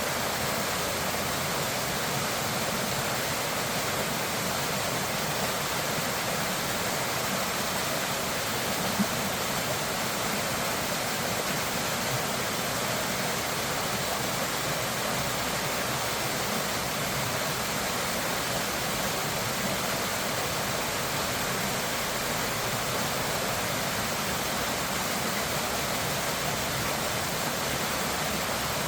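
Steady rush of flowing floodwater, an even unbroken noise, with a single brief click about nine seconds in.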